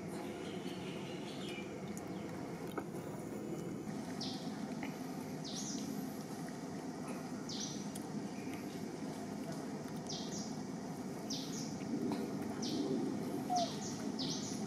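Outdoor ambience of steady low background noise, with birds giving short high chirps. The chirps start about four seconds in and come about once or twice a second, often in quick pairs.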